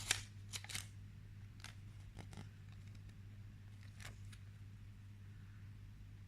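A few faint clicks and rustles of paper info cards and packaging being handled, mostly in the first second, then a few single taps, over a steady low hum.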